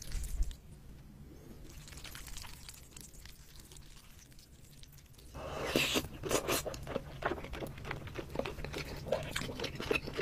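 Close-miked eating: from about halfway in, a mouthful of braised pork rice is chewed with dense wet smacking and clicking. Before that, only a low steady hum and faint sounds.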